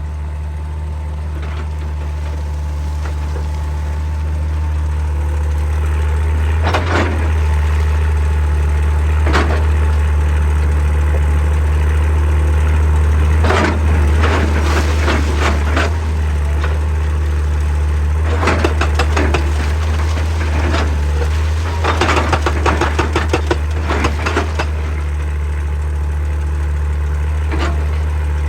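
Excavator's diesel engine running steadily, with several short spells of rapid knocking and rattling from the attachment working against rock. The longest spell comes near the end.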